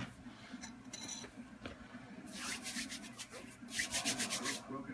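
Rubbing on leather: a run of quick back-and-forth strokes that starts about halfway in and is loudest near the end.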